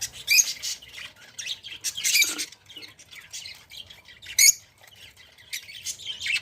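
Budgerigars chattering, with short sharp squawks scattered through; the loudest squawk comes about four and a half seconds in.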